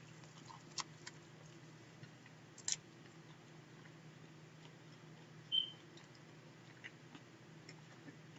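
A man faintly chewing a big mouthful of meat sandwich, with a few small wet mouth clicks. A brief high beep sounds about five and a half seconds in, over a faint low hum.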